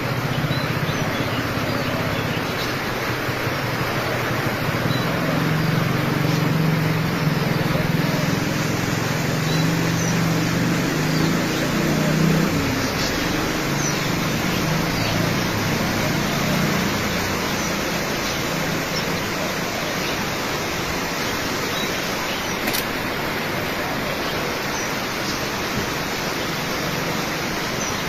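Aviary ambience: a steady hiss with scattered faint, short bird chirps. A low murmur sits under it for about the first half.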